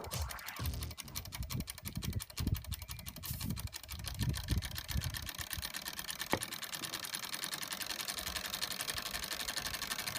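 Small solar-heated Stirling engine running at speed, its mechanism ticking rapidly and evenly, with some low thuds during the first half.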